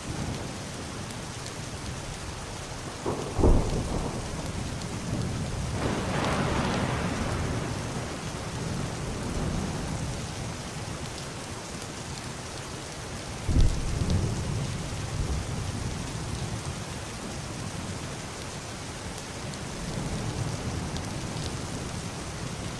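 Heavy rain falling steadily on a roof and glass window, with thunder: a sudden loud clap about three and a half seconds in, a rolling rumble a few seconds later, and a second sharp clap about thirteen and a half seconds in.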